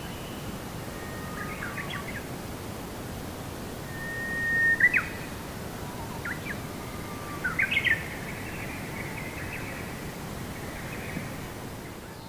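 Birds calling over a steady hiss of outdoor background noise: several short whistled phrases and chirps, the loudest about five seconds in and again in a quick run of notes near eight seconds.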